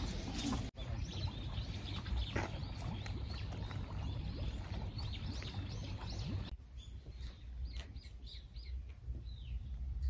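Small birds chirping in short, repeated calls over a steady low rumble of outdoor background. About two-thirds of the way through, the background drops quieter and a quick run of chirps stands out.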